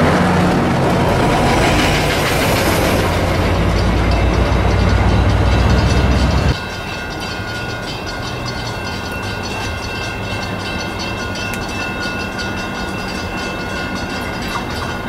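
Metrolink diesel locomotive passing close by, its engine drone and wheel noise loud. About six and a half seconds in it cuts off suddenly. Quieter rail noise from a distant approaching freight train follows, with a few faint steady high tones.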